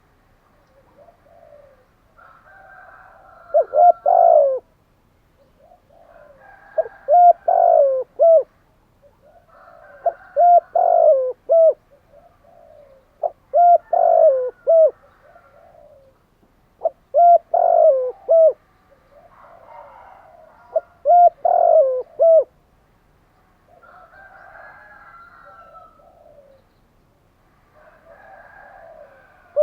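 Spotted dove cooing: a repeated phrase of a few rising-and-falling coos, about every three to four seconds, with some phrases louder and some fainter.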